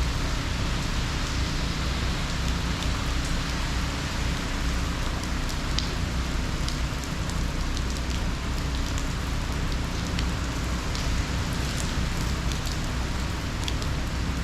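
Heavy hurricane rain falling steadily, with a constant hiss and scattered drops ticking close by.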